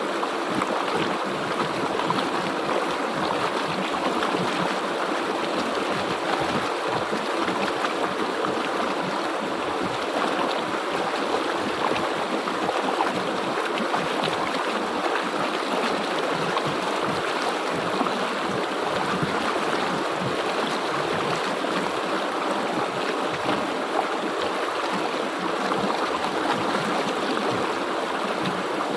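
River water flowing steadily over rocks, a continuous even rush with no break or change.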